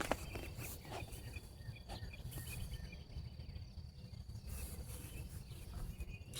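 Outdoor ambience of insects chirping: a steady high trill with rows of quick repeated chirps over the first half, over a low rumble.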